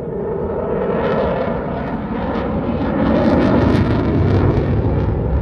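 Eurofighter Typhoon jet engines roaring in a display pass, swelling to their loudest about three seconds in, with a crackling edge.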